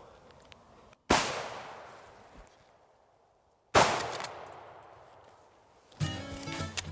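Two shotgun blasts about two and a half seconds apart, each trailing off in a long fading echo. Music starts near the end.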